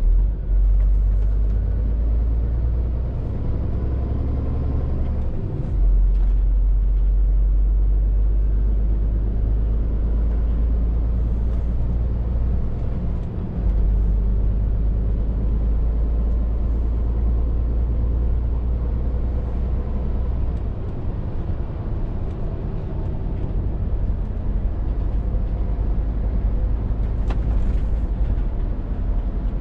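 Scania R450 lorry's engine running under way, a steady low drone with road noise, dropping briefly and coming back up about six and thirteen seconds in.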